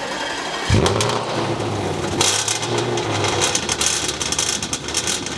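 Audi RS5's naturally aspirated V8 starting for the first time through a new hand-fabricated X-pipe exhaust: the starter cranks, the engine catches about a second in, then it runs loud and harsh from about two seconds in.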